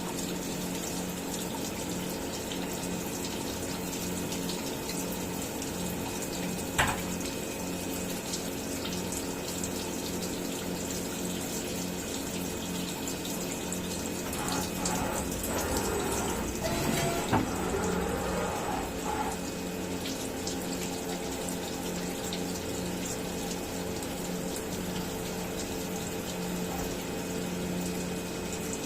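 CNC milling machine running, with a steady hiss of flowing coolant over a steady machine hum. A sharp click about seven seconds in, and a wavering tone that sweeps down and back up a little past the middle.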